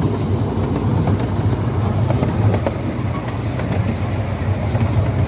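Amusement-park train running along its track, heard from aboard: a steady low rumble of the wheels and running gear.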